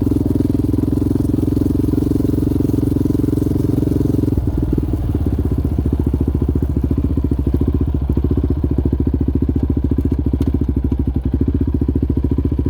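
Yamaha Raptor 700R sport quad's single-cylinder engine running at steady throttle; about four seconds in the note drops and it runs on at lower revs with a clear pulsing beat.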